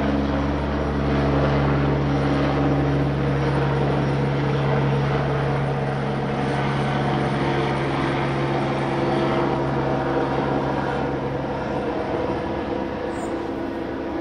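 Steady engine drone of an aircraft overhead, its low pitched hum fading out about twelve seconds in.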